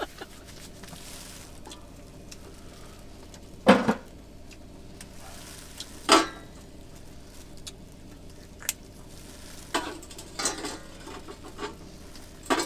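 Food sizzling quietly in a frying pan, with a few sharp clanks of utensils or cookware, the loudest about four and six seconds in.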